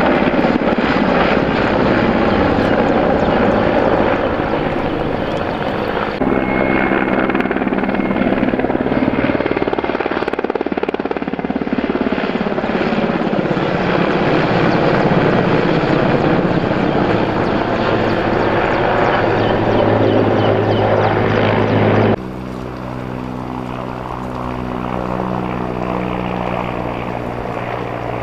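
Firefighting helicopter flying close by, a loud steady rotor and turbine noise. The sound changes abruptly twice, about a fifth of the way in and again about three quarters through, and is quieter after the second change.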